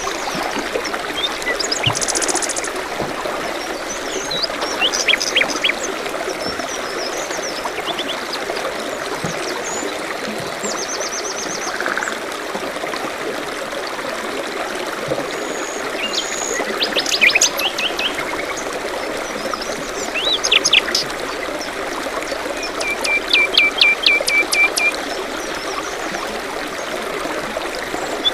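Steady babbling of a small stream, with several songbirds chirping and singing over it in short phrases and trills. The loudest are a burst of song a little past halfway and a run of about eight quick, evenly spaced notes near the end.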